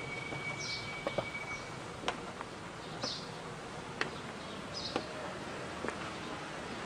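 Outdoor ambience: short high bird chirps every couple of seconds over a steady hiss, with light clicks about once a second.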